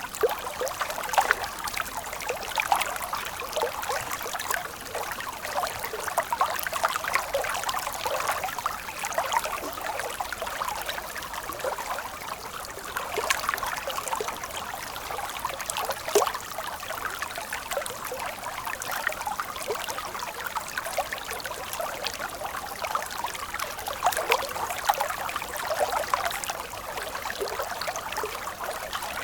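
Stream water trickling and splashing steadily, a constant rush full of small splashes.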